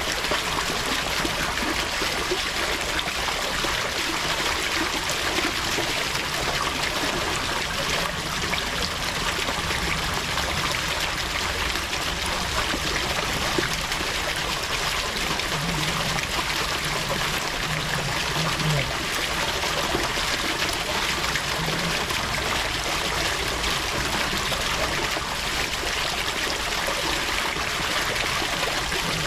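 Water running steadily, an unbroken trickling, stream-like flow.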